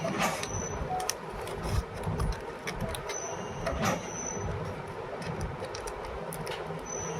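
Soap-factory machinery running with a steady clatter. About every three and a half seconds it gives a short, high whining hiss, once near the start and again about four seconds in, as the machine cycles.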